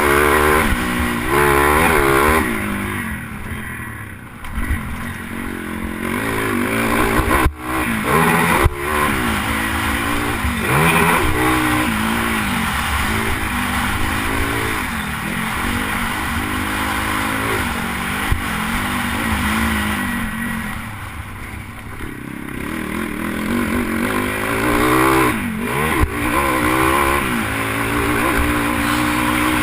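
Pit bike engine revving up and falling back again and again as the throttle is opened and closed, with quieter throttle-off lulls about four seconds in and again a little past twenty seconds.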